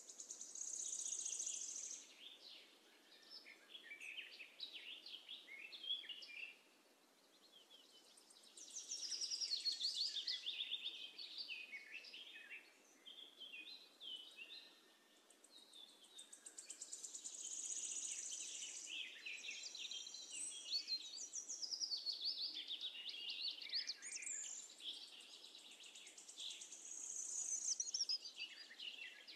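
Faint birdsong: bouts of quick, high chirps and trills a few seconds long, with short gaps between them.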